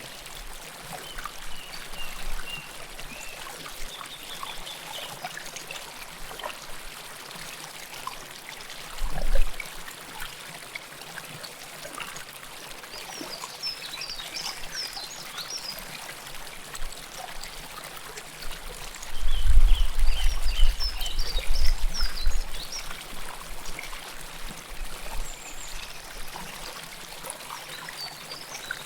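River water flowing close by, a steady rush with trickling. Brief high chirps come and go over it, and low rumbles break in, a short one about nine seconds in and a longer, louder one from about nineteen to twenty-two seconds.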